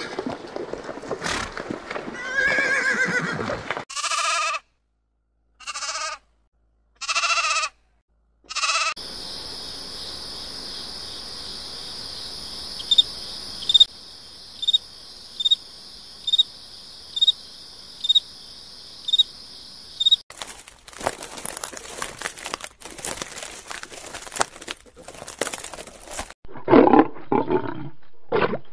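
A string of animal calls: horses whinnying and neighing in the first few seconds, with several short calls broken by silent gaps. Then a steady high trilling with a short chirp about every second, some crackling noise, and a lion starting to roar near the end.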